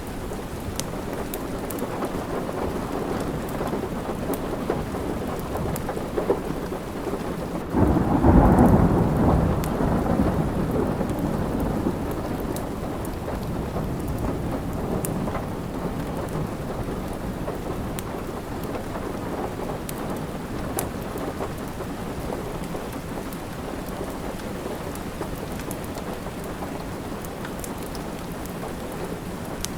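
Steady rain with a roll of thunder that breaks in about eight seconds in and fades away over a few seconds. Light crackles of a wood fire sound through it.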